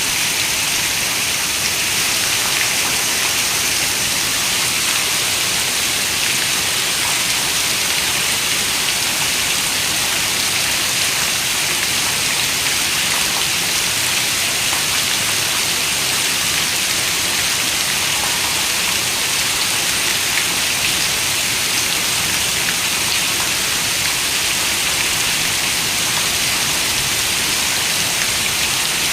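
Steady rain: an even, unbroken hiss of falling rain, strongest in the high range, with fine individual drop ticks scattered through it.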